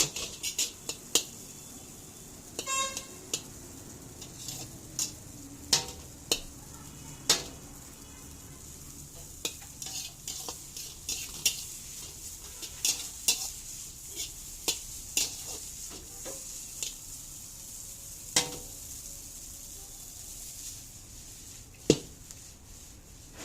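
Chow mein stir-frying: noodles sizzling in a hot pan while a metal utensil knocks and scrapes against it at irregular intervals, with one loud knock near the end.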